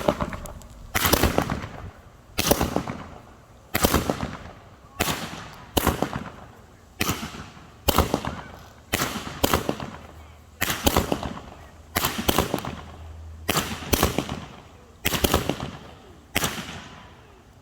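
Consumer firework cake of parachute shells firing its shots one after another, a sharp bang roughly every second, each ringing away before the next, some in quick pairs.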